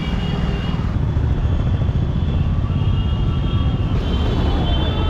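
Steady low rumble of street traffic, with faint high tones above it.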